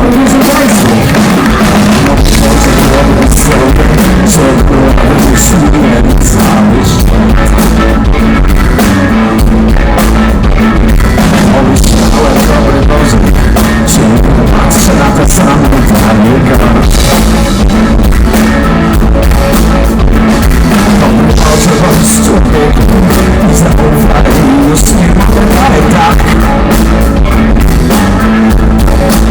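Live rock band playing loud, with drum kit, guitar and a singer, recorded very close to full level so the sound is harsh and overloaded.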